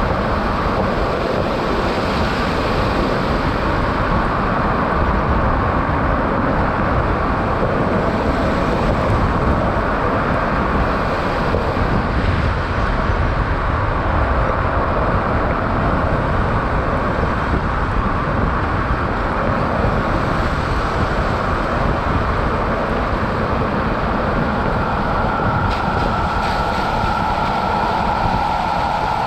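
Steady road and wind noise of a Tesla Cybertruck driving on a snowy highway: tyres rushing over the wet, snow-covered surface with no engine note. Near the end a steady higher tone comes in over the noise.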